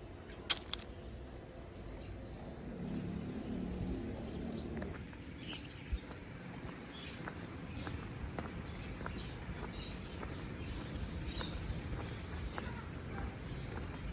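Outdoor street ambience: a steady low traffic rumble with an engine hum swelling briefly about three seconds in, and scattered short bird chirps. There is one sharp click about half a second in.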